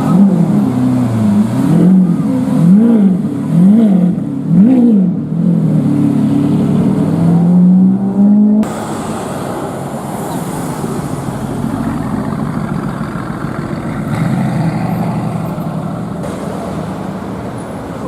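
Supercar engine revved in about four quick blips, its pitch rising and falling sharply each time, then held at a steady higher note before cutting off suddenly about halfway through. After that there is a quieter, steady rumble of engines and street traffic.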